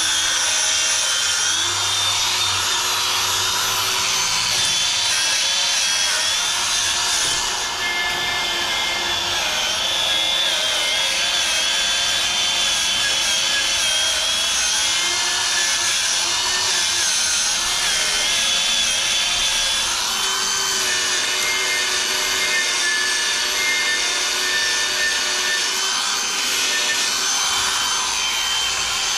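Angle grinder running continuously against steel welds, its whine wavering in pitch as the load on the disc changes.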